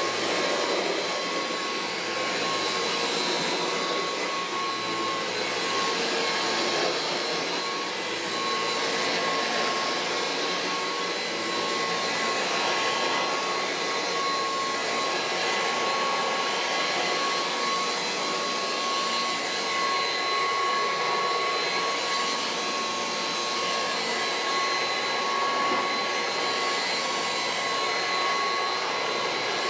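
Kirby Heritage II upright vacuum cleaner running continuously while vacuuming: a steady high whine over a rush of air.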